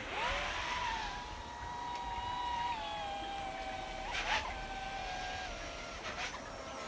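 Brushless motors and propellers of a 3-inch FPV quadcopter whining in flight. It holds a fairly steady pitch that steps down a little twice, with two brief throttle blips about four and six seconds in.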